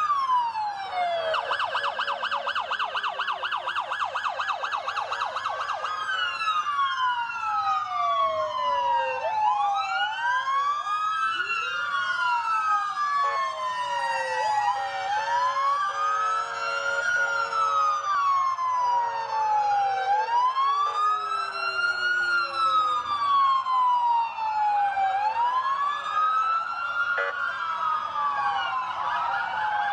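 Several emergency-vehicle sirens sounding at once, their slow wails rising and falling out of step with one another. For a few seconds near the start, one of them switches to a fast yelp.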